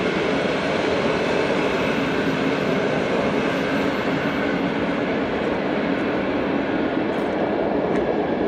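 Passenger train passing close by a level crossing: a loud, steady rumble of the carriages that keeps an even level throughout.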